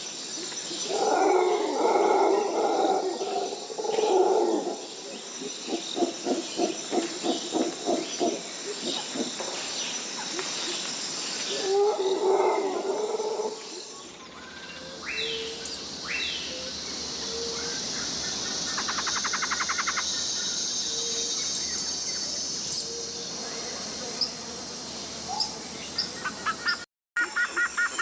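Tropical rainforest ambience. For the first half, loud low animal calls come in repeated pulses, several a second at times. Then the sound changes abruptly to a steady high-pitched insect drone, with scattered short bird chirps and a quick trill.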